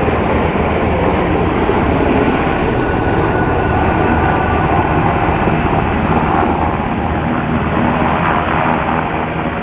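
Loud, steady military aircraft noise from rescue helicopters and A-10 attack jets running close by, with no let-up.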